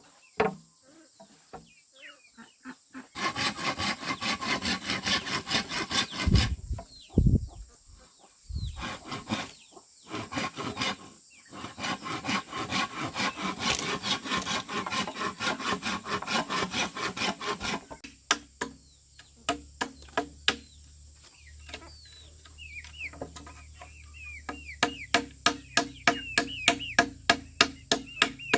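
Hand saw cutting bamboo in quick, even back-and-forth strokes for about fifteen seconds. After that come a run of sharp, evenly paced knocks, with birds chirping.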